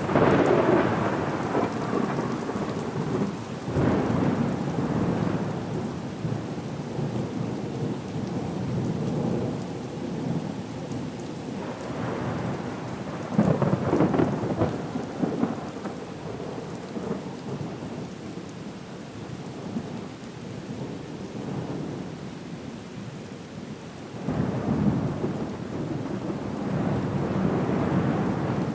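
Storm ambience: steady rain with low rolls of thunder that swell and fade about four times, right at the start, around four seconds in, around thirteen seconds and around twenty-five seconds.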